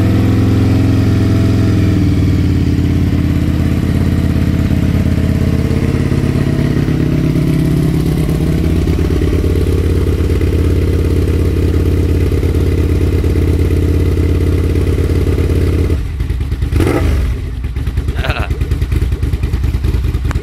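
Aprilia RSV 1000R's V-twin engine running at a standstill through an aftermarket slip-on silencer. The engine speed drops about two seconds in and then rises gently for a couple of seconds. Near the end the note drops in level, two short sharp clattering sounds come a second apart, and the idle turns uneven and pulsing.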